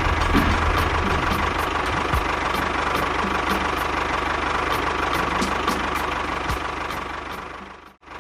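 A small engine running steadily with a low hum and a light regular ticking. It fades out to silence near the end.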